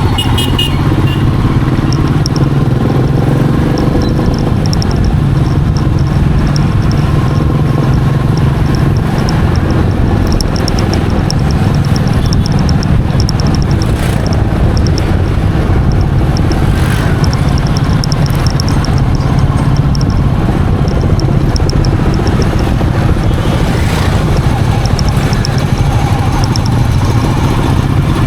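Royal Enfield Meteor 350's single-cylinder engine running steadily as the motorcycle is ridden at an even pace, with no marked revving.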